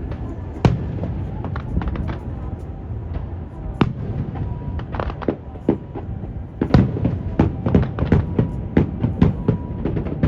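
Fireworks shells bursting: a few scattered bangs, then a rapid run of cracks and booms from about two-thirds of the way in. Wind rumbles on the microphone throughout.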